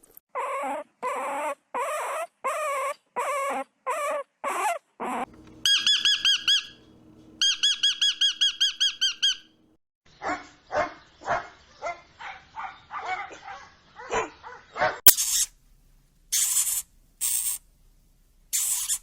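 A run of young animals' calls from several different animals in turn: first about ten short yelping calls, then fast, high-pitched warbling chirps, then a quicker run of fainter calls, and near the end a few high, hissy screeches.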